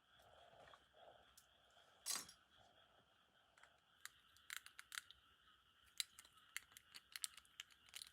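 Faint small clicks and taps of tools and small metal parts being handled while a Tomica die-cast toy car is taken apart. There is a single louder scrape about two seconds in, then a quick scatter of light clicks in the second half.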